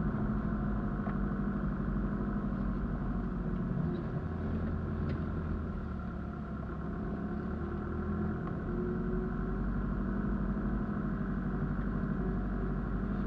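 A 4x4's engine running steadily at low revs, heard from inside the cab as the vehicle drives slowly along a muddy track, with a few faint clicks and knocks.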